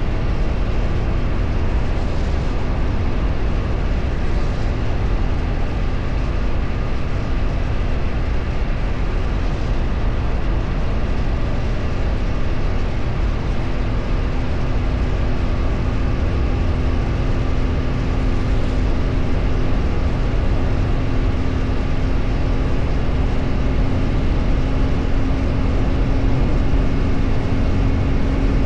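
Steady wind and road noise of a vehicle on the move, heavy in the low end. About halfway through, a faint steady engine tone comes up and climbs slightly in pitch.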